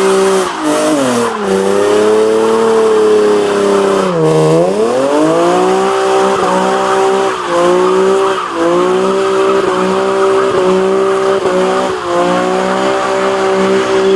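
A car engine held at high revs, its pitch swooping down and back up about four seconds in and then rising and dropping about once a second, over a continuous loud tire squeal: a burnout.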